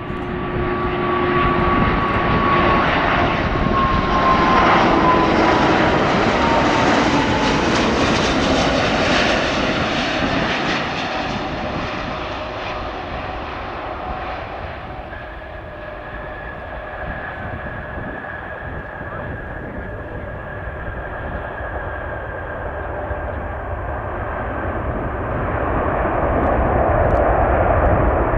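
Jet airliner passing close by, engine noise swelling to its loudest in the first third, with a whining engine tone that falls in pitch as it goes by. The engine noise builds again near the end.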